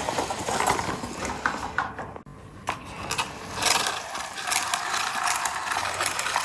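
Toy dump truck driving along, its small geared motor running with an irregular clicking and rattling of gears and wheels.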